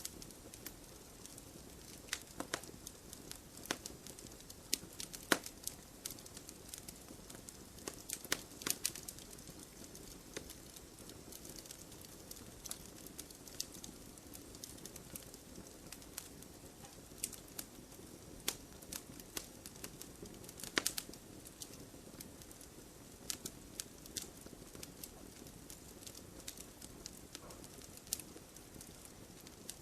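Campfire burning in a brazier, crackling with irregular sharp pops over a low steady hiss; a few louder pops stand out about five, eight and twenty-one seconds in.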